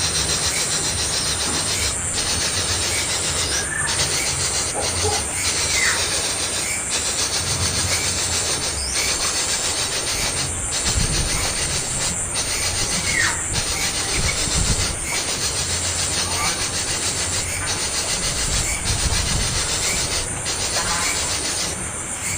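A young bird's begging calls: a few short, falling whines, spaced several seconds apart, over a loud, steady, rasping noise.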